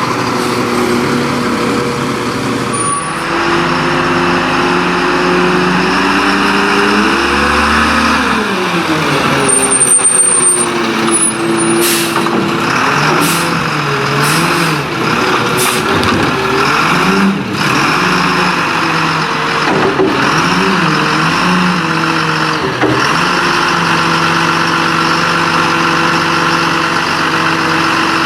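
Diesel engine of a Leach Curbtender rear-loading garbage truck running, its pitch climbing, then rising and falling through the middle before settling to a steady note near the end, with short air-brake hisses.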